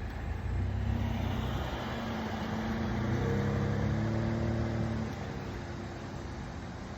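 A car driving by close to the parked car, its engine note swelling about half a second in and fading away after about five seconds, over a steady low hum.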